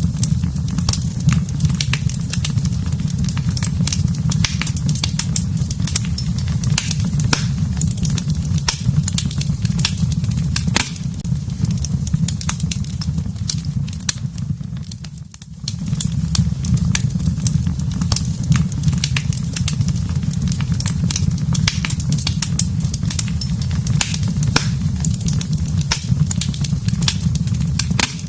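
Wood fire burning in a fireplace: a steady low rumble with many sharp crackles and pops. About halfway through the sound dips briefly and then comes back.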